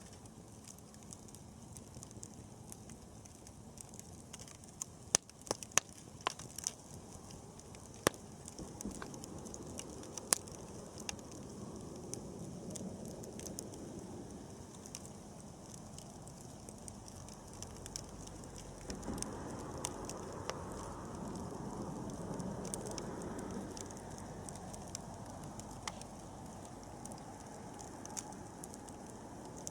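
Wood campfire crackling, with sharp pops scattered through and a low rushing that swells for several seconds about two-thirds of the way in.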